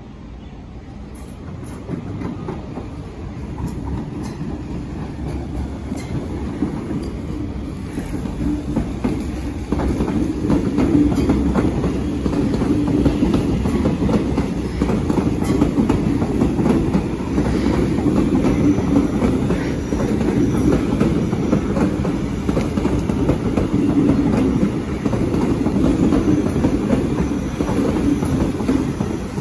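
MTR metro train pulling out of a turnback siding, its wheels rumbling and clicking over the rail joints and points. The rumble grows louder over the first ten seconds as the train draws near, then stays steady as the cars roll past.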